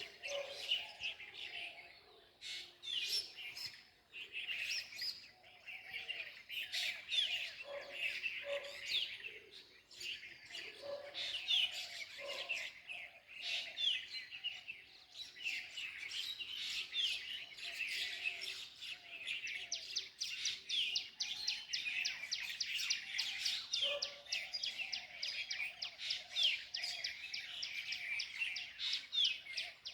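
A large flock of small birds chirping and twittering together, many calls overlapping without a break. High, quick chirps carry the chorus over a lower chatter of calls, and from about two-thirds of the way through the high chirping grows denser and more rapid.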